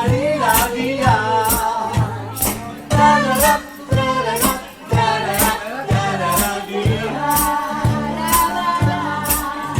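Vocal trio singing in close harmony over a bass line, with hand percussion struck at an even pace of about two strokes a second.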